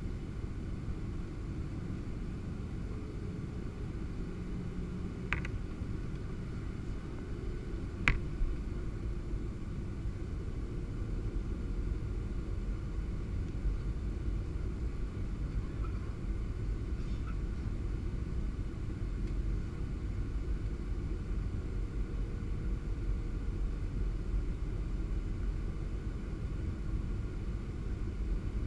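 Steady low rumble of a Boeing 737-700 heard from on board, with two brief sharp clicks about five and eight seconds in.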